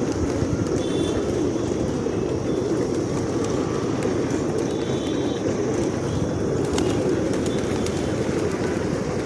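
A large flock of pigeons cooing together in a steady, dense low murmur, with a few short high calls.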